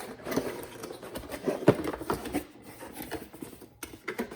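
Cardboard box and packaging being opened and handled: irregular rustling, clicks and knocks, with the loudest knock about two seconds in.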